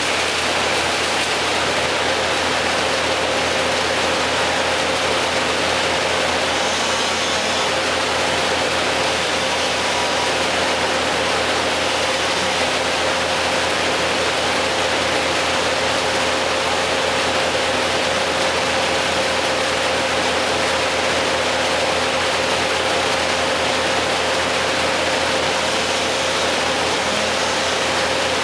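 Engine idling steadily, with a thin steady whine that sets in about two seconds in.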